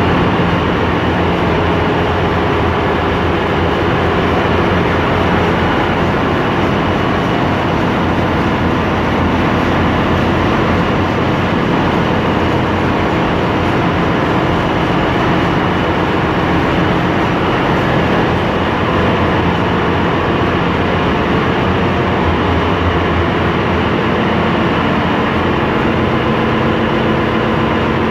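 Loud, steady engine-room noise of a bulk carrier: large diesel machinery running continuously, a dense even drone with faint steady tones and no breaks.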